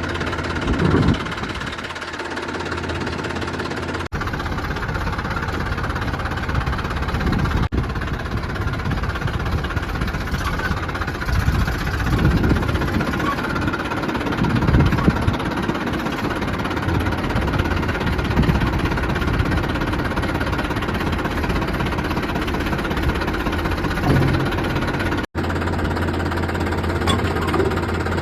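Diesel tractor engine running steadily with a heavy knocking beat, broken by a few abrupt cuts.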